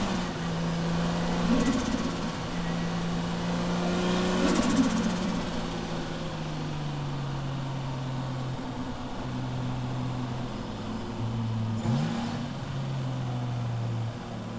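Toyota JZX100 Tourer V's turbocharged 1JZ-GTE inline-six heard from inside the cabin, running at low revs with its pitch slowly falling as the car rolls along gently. About twelve seconds in there is a brief rev blip.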